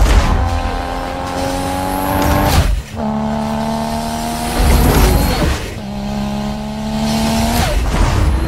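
Car engine accelerating hard through the gears, its note held in three runs that break off at two gear changes about three seconds apart.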